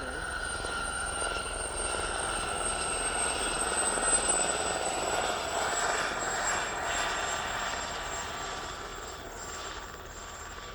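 Turbine aircraft passing: a rushing engine noise with a high whine that drops slightly in pitch, growing louder to a peak about four seconds in, then fading away.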